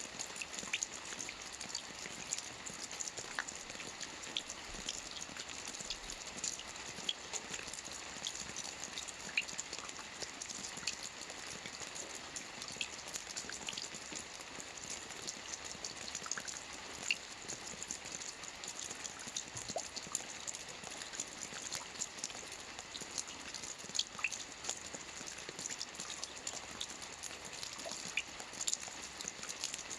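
Steady rain falling on a lake's surface: an even hiss with many separate drop ticks scattered through it.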